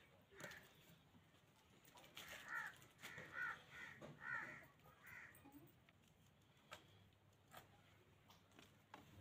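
A bird calling in the background: a string of short, repeated calls, most of them between about two and five seconds in.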